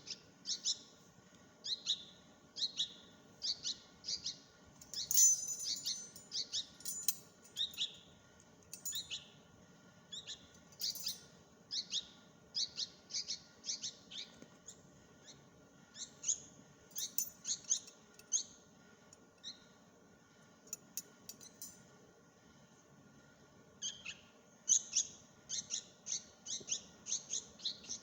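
Bulbul chicks giving high-pitched begging chirps in quick repeated series as they are fed. There is a brief clatter of clicks about five seconds in and a quieter gap about three-quarters of the way through.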